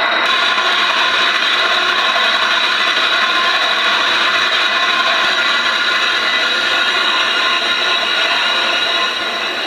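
Steady metallic grinding with a high, ringing whine from a spinning machine part, running unchanged throughout.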